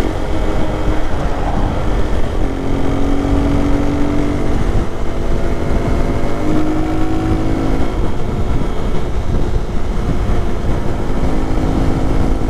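Motorcycle engine running under way; its pitch holds steady for stretches and shifts as the throttle changes, over a heavy low wind rumble.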